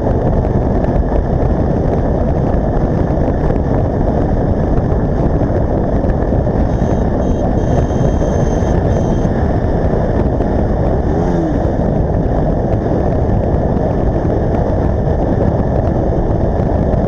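A motorcycle ridden at speed: a steady, loud rush of wind and engine noise, with a faint high tone about seven to nine seconds in.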